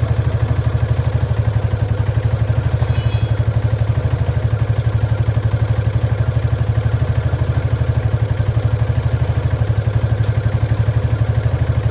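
Motorcycle engine idling steadily with an even, rapid pulse. A brief high-pitched sound comes about three seconds in.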